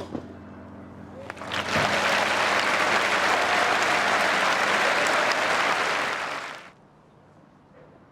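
A sharp ball strike at the start, then a tennis crowd applauding, swelling up about a second and a half in and cutting off abruptly near the end.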